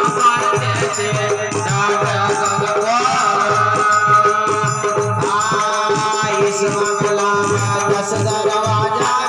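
Rajasthani folk bhajan music: a melodic line with sliding notes over a steady hand-drum beat and rattling percussion.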